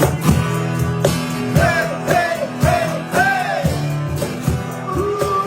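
A live rock band playing loudly: drums striking a steady beat under sustained guitar chords, with a melody line bending and gliding between notes.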